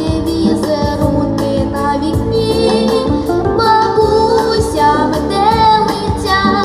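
A song: a high female voice singing a melody over a backing track with a steady beat.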